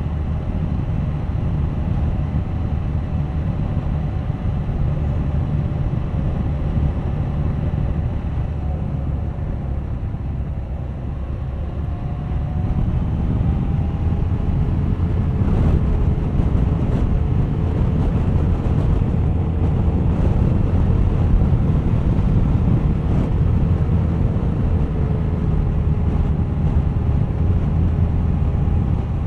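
Suzuki GSX1250FA inline-four engine running under way, with wind rushing over the microphone. The engine note gets louder about halfway through, its pitch drifting slowly up and then down.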